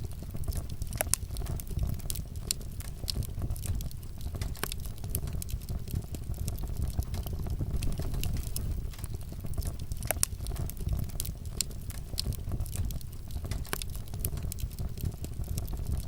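Wood fire crackling in a fireplace: a steady low rumble of flames with frequent small crackles and pops, and sharper pops about a second in and about ten seconds in.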